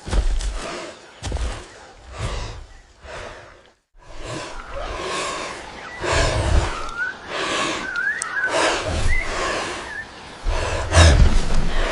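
Repeated heavy breaths with low thuds, cut off briefly about four seconds in. Then jungle ambience with short bird chirps and more breathing and thuds.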